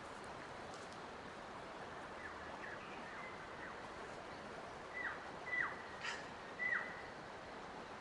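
A bird calls in short notes that start high and drop sharply in pitch, a few faint ones followed by three louder calls in the second half. Under them is a steady rushing background of forest ambience, with one brief click.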